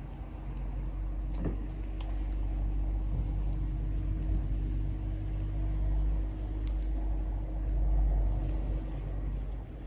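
A loud, steady low rumble with a faint hum, swelling a little about four and eight seconds in, with a few faint short high chirps above it.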